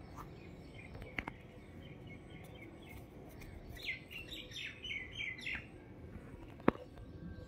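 A small bird chirps a quick run of short, falling notes about four seconds in, over a faint steady outdoor background. There are a couple of light clicks about a second in and one sharp click near the end.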